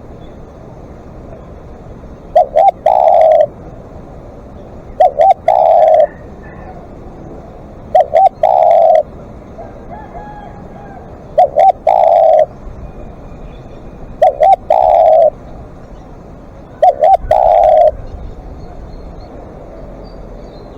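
Spotted dove cooing: six calls about three seconds apart, each two short clipped notes followed by one longer coo.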